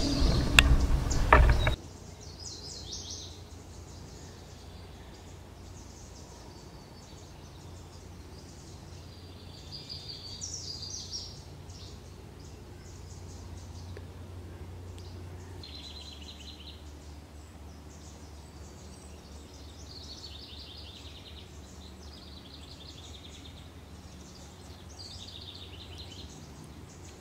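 Small birds chirping and trilling in short, scattered phrases over a faint steady low hum. A loud passage cuts off about two seconds in.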